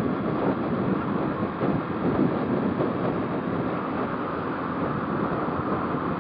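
Motorcycle riding at speed: steady rush of wind over the microphone mixed with engine and road noise, with no marked changes.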